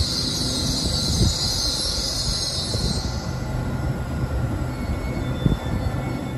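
An LNER Azuma (Hitachi Class 800/801) multiple unit braking to a stop at a platform, with a high squeal that fades about three seconds in as the train comes to a stand, over a steady low rumble from the train.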